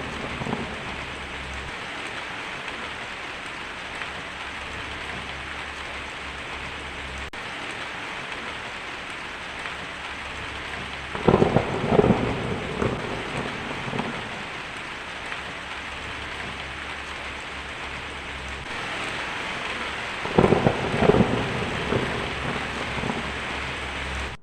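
Heavy rain falling steadily on a tin roof, with thunder rolling twice, about halfway through and again near the end. The sound cuts off suddenly at the end.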